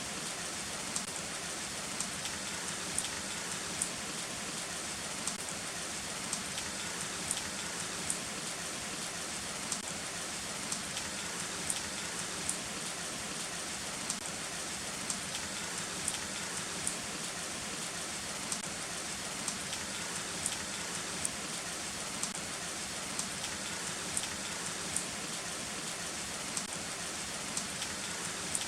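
Heavy rain falling steadily, an even hiss with sharp drop taps standing out irregularly, about one or two a second.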